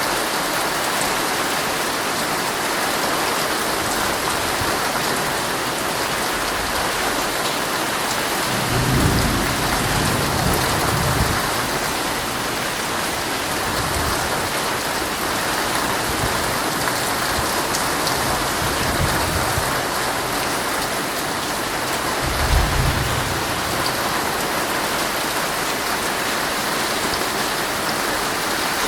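Heavy rain pelting a tent in a steady hiss, with low rolls of thunder, one about nine seconds in lasting a few seconds and a shorter, sharper one a little past twenty seconds.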